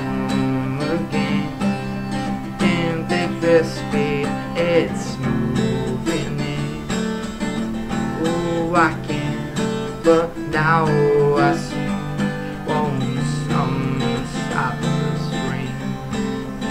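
Acoustic guitar music, the wordless instrumental close of a song. Chords ring under a melody whose notes bend and waver in pitch.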